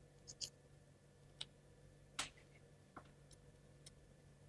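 Faint, irregularly spaced light clicks and taps of small plywood gears being fitted onto their axle pins, about half a dozen in all.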